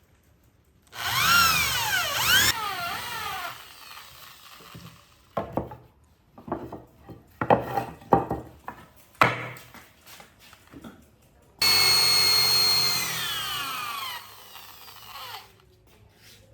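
An electric power tool runs twice in short spells, its whine falling in pitch each time as it spins down after release. Between the two spells comes a series of short, uneven strokes of tool on wood.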